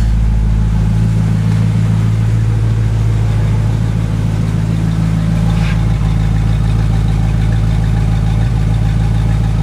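Carbureted Pontiac 326 V8 in a 1967 Firebird idling steadily after a cold start, dropping off its choke fast idle, on its first run after two years of sitting.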